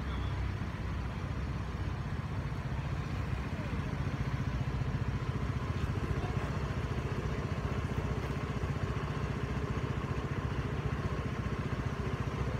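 Chevrolet Camaro's engine idling, a steady, fast, even pulse from the exhaust that grows a little louder about four seconds in.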